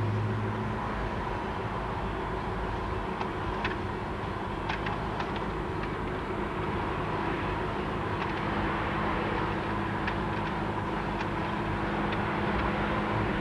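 Steady vehicle drone: a continuous mechanical hum with a few faint light clicks.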